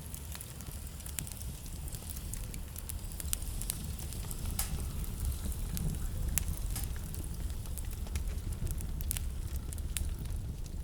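Wood burning in a fireplace, crackling with scattered sharp pops, over a steady low rumble of blizzard wind.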